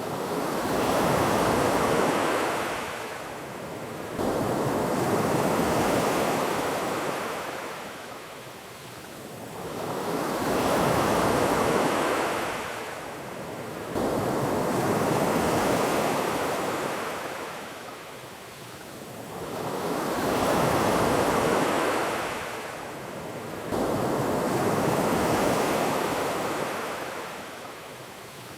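Ocean waves washing onto a beach, swelling and fading in a slow rhythm, about six swells in half a minute.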